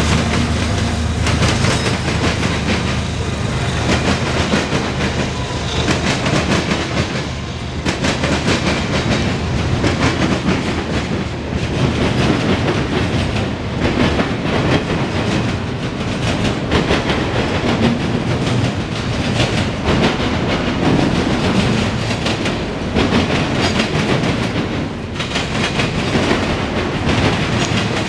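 Freight train cars rolling past at close range: a steady rumble of steel wheels on rail with a clickety-clack over the rail joints. A mid-train diesel locomotive's engine drone fades out in the first couple of seconds.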